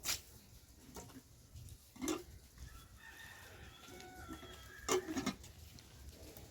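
Chickens clucking in short sharp calls, with a rooster crowing faintly between them about three seconds in.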